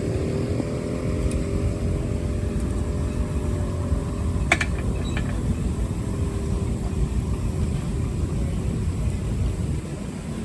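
Engine running steadily with a fast, even low rumble, and one sharp click about four and a half seconds in.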